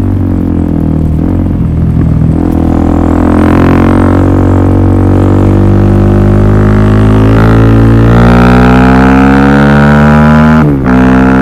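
Suzuki DR-Z400SM's single-cylinder four-stroke engine running loud through a Yoshimura full exhaust system, its note climbing slowly and steadily, with a brief dip near the end.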